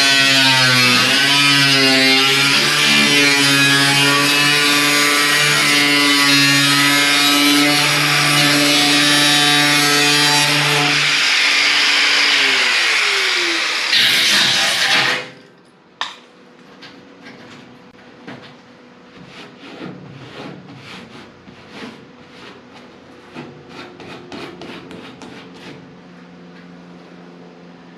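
Power tool trimming the car's sheet-metal body panel. Its motor runs loud, and its pitch dips under load, falls as it winds down and cuts off about halfway through. Quieter scraping and taps of work on the metal follow.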